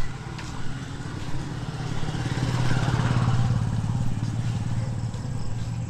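A motorcycle engine running with a fast, even pulse. It grows louder to a peak about halfway through, then eases off.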